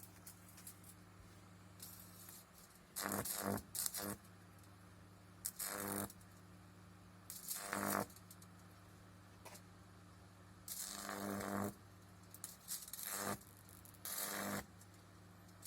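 Microwave oven transformer humming steadily on mains power, broken by about six loud buzzing bursts of high-voltage arcing, each lasting half a second to a second.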